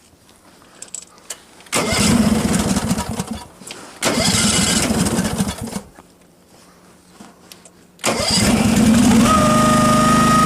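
Case 446 garden tractor's engine being started: the starter cranks it in two bursts of about two seconds each without it catching, then it fires about eight seconds in and runs steadily, with a thin steady whine joining a second later.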